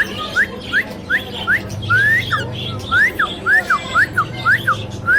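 Whistling: a quick run of short, sharp whistles, about three a second, most sliding up in pitch and a few sliding down.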